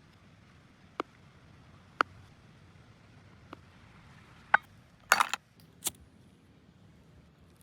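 A series of separate sharp clicks and knocks, roughly one a second, with a quick cluster of louder clinks about five seconds in.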